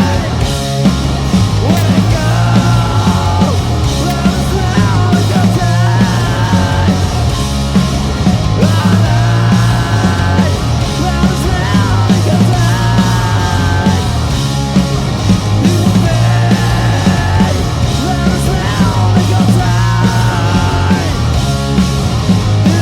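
Live rock band playing loud, distorted rock with heavy bass and drums, a lead line bending in pitch above them.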